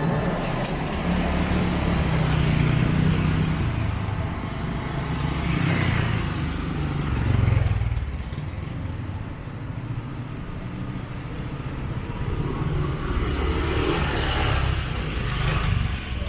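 Street traffic: vehicle engines rumbling steadily and swelling as vehicles pass close by, loudest about seven seconds in.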